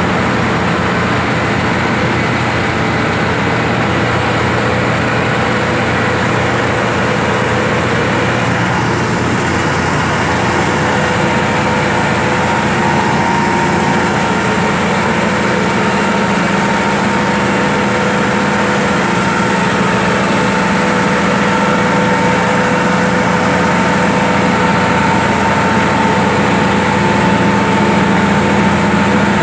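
Heavy diesel engine running steadily for the whole stretch, growing slightly louder toward the end.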